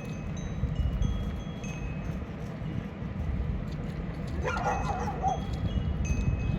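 A steady low rumble with scattered short, high ringing tones like chimes, and a brief wavering cry about four and a half seconds in.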